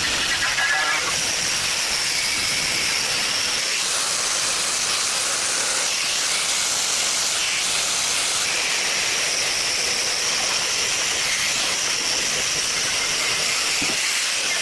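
A loud, steady hiss, strongest in the upper range, without rhythm or changes in pitch.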